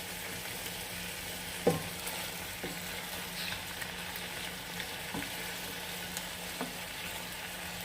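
Chicken pieces sizzling in their own juices in a pot on the stove, a steady hiss over a low hum, while a metal spoon scoops out the stock and clinks against the pot four times, the loudest about two seconds in.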